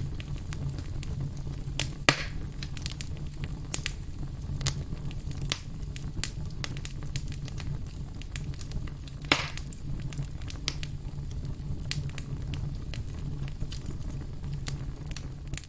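Firewood burning, with frequent small crackles over a steady low rumble, and two louder pops about two seconds in and about nine seconds in.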